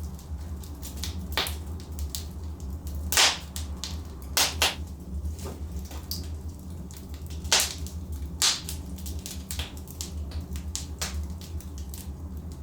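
Burning logs in a fireplace crackling, with irregular sharp pops over a steady low rumble; the loudest pops come about three seconds in and again about seven and a half seconds in.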